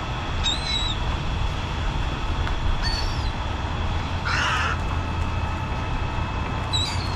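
Birds calling: short high chirps, then one harsh call like a caw about four seconds in, and a quick run of falling notes at the end, over a steady low rumble.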